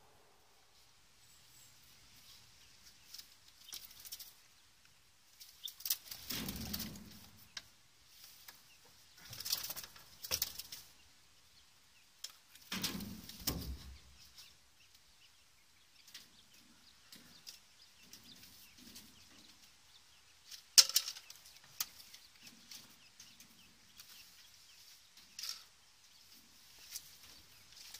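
Small aviary birds flapping their wings in several short bursts, with faint high chirping between them and one sharp click about three quarters of the way through.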